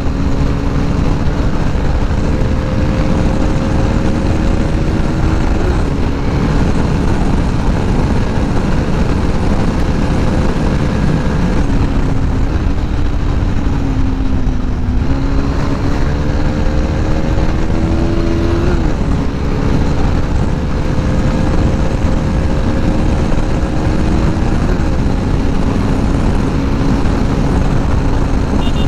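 KTM RC 390's single-cylinder engine pulling hard under heavy wind noise, its pitch climbing slowly and dropping sharply three times, with one slower dip and recovery midway.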